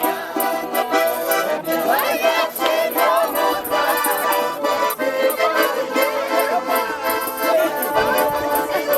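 A garmon (Russian button accordion) plays a lively folk tune, with a rattle keeping a steady beat.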